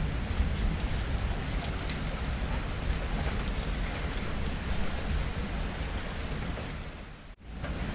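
Steady rain with individual drops ticking and a low rumble underneath. The sound fades almost to nothing for a moment about seven seconds in, then comes back.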